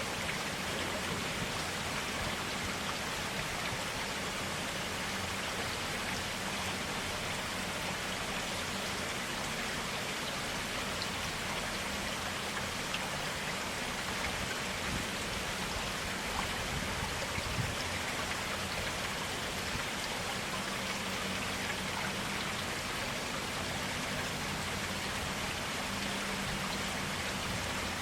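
Forest stream running steadily, an even rush of clear water with no breaks.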